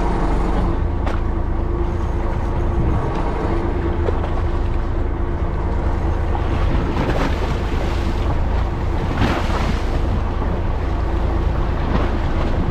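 Fishing boat's engine running steadily under wind noise and the wash of the sea against the hull, with a couple of brief louder swells of water or wind part-way through.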